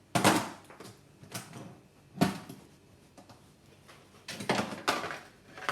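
Several short knocks and scrapes from things being handled in a fridge. A few are spread out, then a quicker cluster comes near the end.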